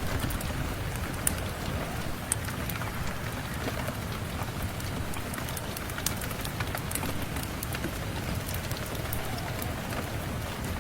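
Steady rain and a crackling fireplace: an even hiss of rain with scattered sharp pops and ticks.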